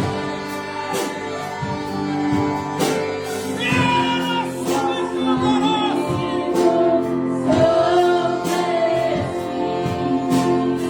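Orchestra and voices performing a gospel song: a sung melody over sustained instrumental chords, with a steady beat of short percussive strokes.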